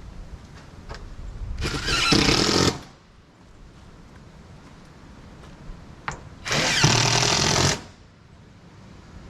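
Power drill running in two short bursts of about a second each, the first about two seconds in and the second a little past the middle.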